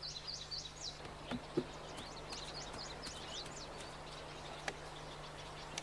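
Small birds chirping faintly in the background: a quick run of short, high chirps in the first few seconds, thinning out after that. Under it runs a steady low hum, with a couple of soft knocks about a second and a half in.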